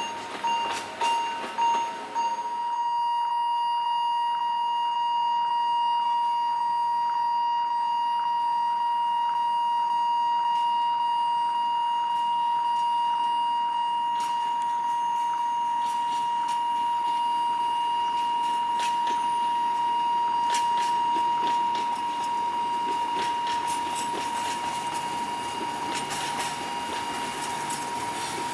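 Railway level-crossing warning alarm: a single high electronic tone, pulsing for the first couple of seconds and then sounding continuously, with faint regular ticks behind it.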